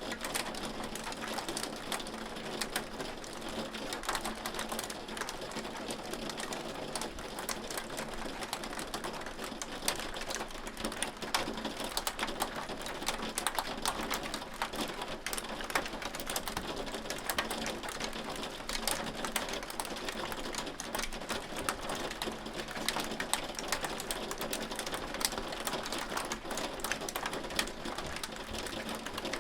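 Hail falling: a dense, irregular patter of hailstones ticking on a hard surface over a steady hiss, keeping up without a break.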